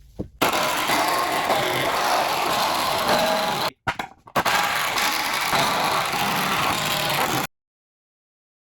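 A power tool running loudly and steadily in two stretches of about three seconds each, both cut off abruptly, followed by dead silence.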